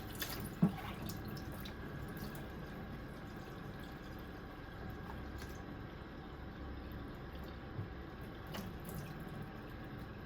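Water running and dripping, like a tap into a sink, with a few light clicks.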